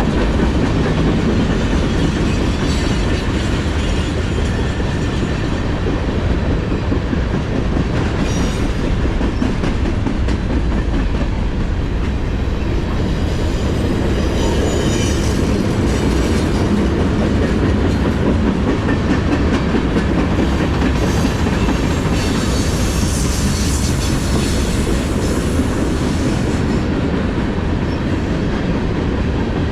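Norfolk Southern freight train rolling past: a steady rumble and clickety-clack of steel wheels over the rails, with a few short stretches of higher-pitched wheel noise.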